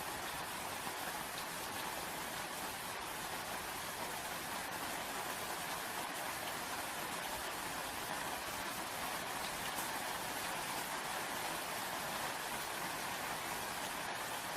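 Steady, even rainfall with faint scattered drop ticks.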